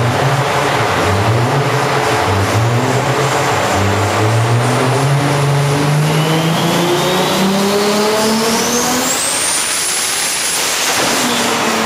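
A 1000+ bhp Toyota Supra's straight-six with a large single turbo, run hard on a rolling-road dyno. The engine pitch rises and drops in several short steps, then climbs in one long pull with a rising turbo whistle, and falls away about ten seconds in.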